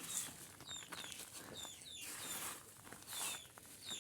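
A small bird chirping repeatedly in short falling notes, about two a second, with a few brief bursts of hiss.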